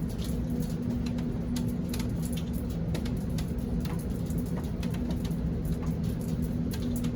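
Rain falling steadily, with many scattered sharp drop ticks over a steady low hum.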